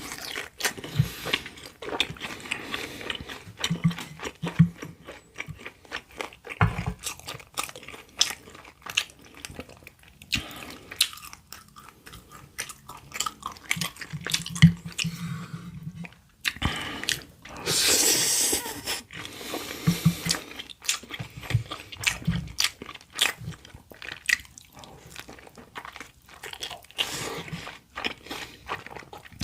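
Close-miked eating sounds: a steady run of wet chewing, smacking and crunching clicks. About two-thirds of the way through there is a louder, noisy stretch lasting over a second.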